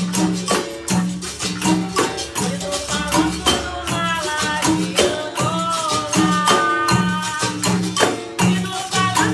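Capoeira Angola roda music: berimbaus with caxixi rattles and hand percussion playing a steady rhythm, a low twanging note repeating about twice a second. A voice sings a line in the middle.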